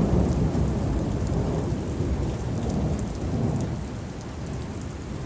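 Thunder rumbling and slowly fading, with a second swell partway through, over steady heavy rain pattering on surfaces.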